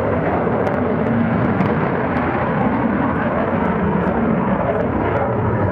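F-16 fighter jet's engine roar, loud and steady throughout as the jet flies its display.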